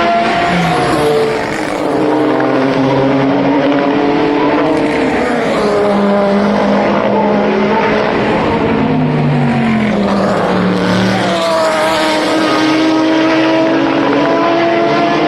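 Several race car engines running at once, their overlapping notes sliding up and down in pitch as the cars pass and change speed.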